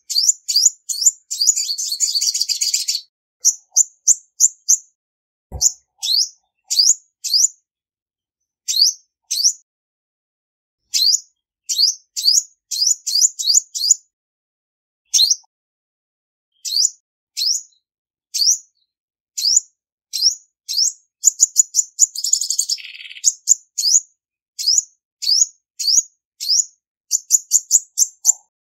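Female olive-backed sunbird calling: short, high, sharp chips, singly or in quick runs of two to five, broken twice by a fast buzzy trill, about a second in and again about three-quarters of the way through.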